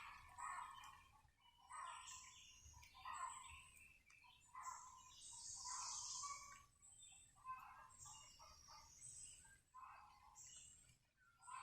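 Faint bird calls and chirps, short and repeating irregularly about every second.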